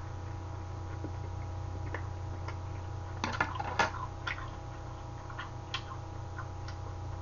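A person chewing a mouthful of beef with small wet mouth sounds. About three seconds in comes a short clatter of clicks as metal chopsticks are set down against a saucepan. A steady low hum runs throughout.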